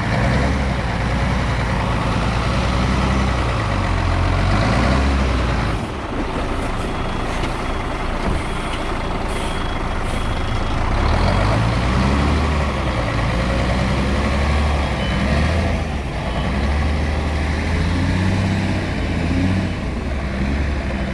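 Heavy truck's diesel engine working hard under load, its revs rising and falling repeatedly as it is driven out of slippery clay. A faint intermittent beeping comes in the middle stretch.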